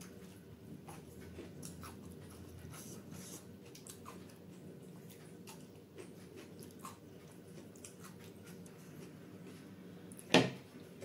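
Soft, close-up chewing of butter naan soaked in butter paneer gravy, with faint wet mouth clicks. One sharp, loud click stands out near the end.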